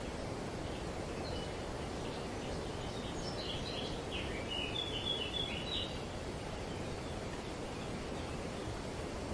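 Steady wind rustling through tree leaves, with a bird giving a run of short, quick chirps and trills from about a second and a half in to about six seconds in.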